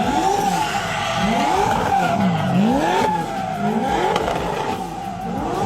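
Car drifting: the tyres squeal steadily while the engine revs rise and fall several times.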